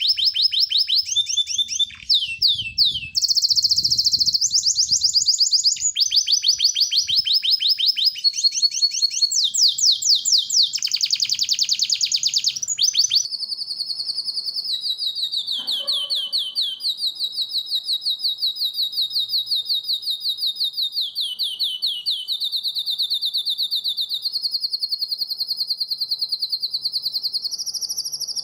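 Songbird singing rapid, high-pitched trills, the fast repeated-note 'tembakan' phrases used in masteran training recordings. Short trills change every second or two at first; from about halfway through it holds one long unbroken trill.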